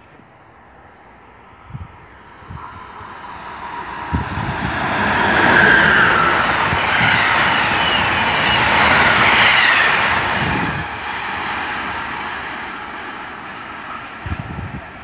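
Amtrak passenger train of stainless-steel Amfleet cars passing along the Northeast Corridor. The rush of wheels on rail builds as it approaches, is loudest in the middle with scattered low thuds, and fades as the train draws away.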